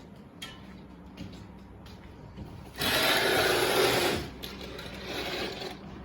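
Rasping slide of something being drawn open along a track, such as a curtain or a sliding balcony door: one loud stroke of about a second and a half starting about three seconds in, then a fainter, shorter one about a second later.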